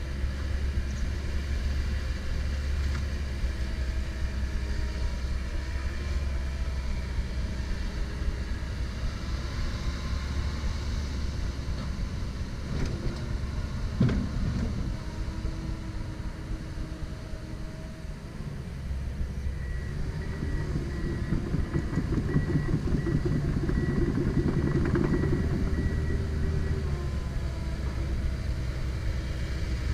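Komatsu PC170LC-10 excavator's diesel engine running steadily, with one sharp knock about halfway through. For several seconds in the second half the engine works harder and louder under hydraulic load, with a faint pulsing high tone over it.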